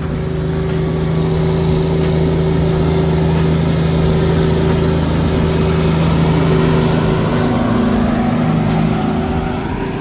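Truck engine running at steady revs with a steady drone, its pitch shifting about eight seconds in.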